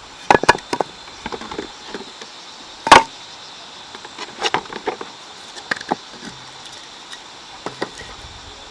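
Firewood being handled: scattered sharp knocks and cracks of sticks, the loudest about three seconds in. A faint steady insect drone runs underneath.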